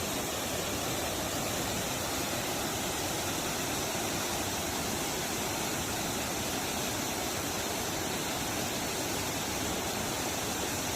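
Dhuandhar Falls on the Narmada River, a large waterfall, giving a steady, unbroken rush of falling water.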